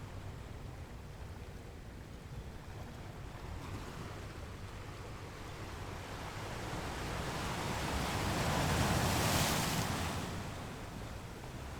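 Ocean surf: a steady low rumble of the sea, with one wave building and breaking loudly about three-quarters of the way through, its hiss swelling and then falling away.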